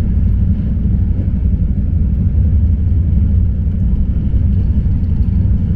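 Steady, loud low rumble of a vehicle in motion, with no clear changes.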